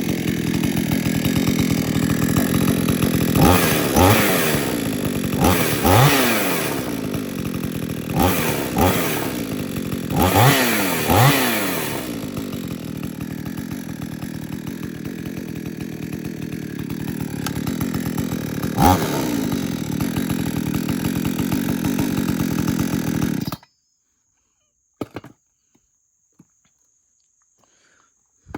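Gas chainsaw running: its two-stroke engine is revved up and let back down several times, quick bursts of throttle between steadier running, with one more rev about two-thirds of the way through. The sound cuts off abruptly near the end.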